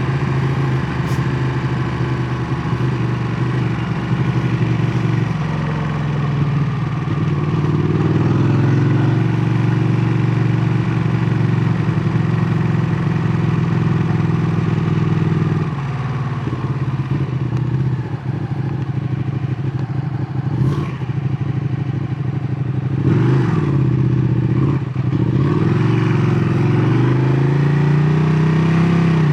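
Ducati Panigale 959's L-twin engine running through its exhaust. Its note climbs and holds, drops sharply about halfway through, then dips and rises again near the end.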